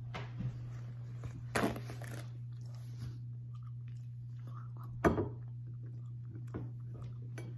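A person chewing a soft pistachio-coated sweet close to the microphone, with scattered short mouth noises and one sharper, louder noise about five seconds in, over a low steady hum.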